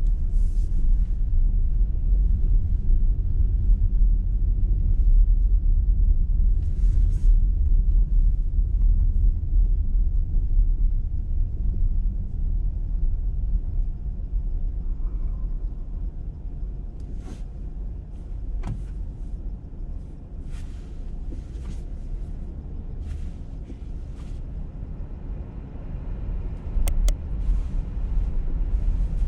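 Car driving on a road: a steady low rumble of tyres and engine that eases off through the middle and picks up again near the end, with brief clicks now and then.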